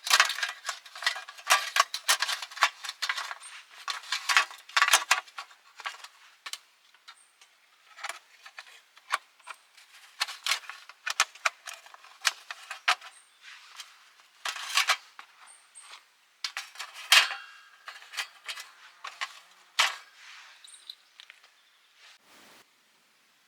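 Irregular clinking and rattling of small metal items, with sharp clicks and brief ringing tones at uneven intervals, dying away near the end.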